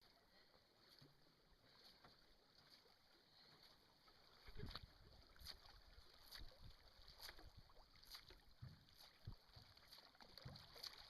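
Faint sound of canoe paddles dipping and pulling through the water, about one stroke a second from midway on, over a steady hiss.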